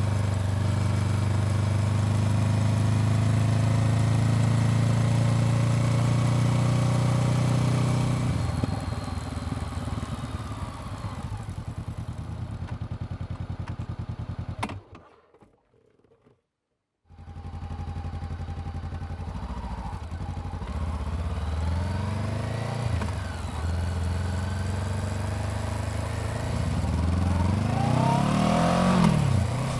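Honda CBR400R's parallel-twin engine running steadily, then dropping to a slow, even pulse at low revs. It cuts out abruptly for about two seconds midway, comes back, and revs up with rising pitch near the end.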